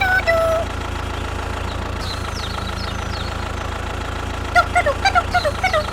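A mini tractor's motor running with a steady drone. Short high chirps come in about four and a half seconds in.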